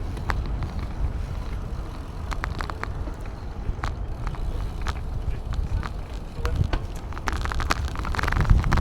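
Wind rumbling over the microphone of a camera riding on a moving bicycle, with scattered sharp clicks and rattles; it grows louder near the end.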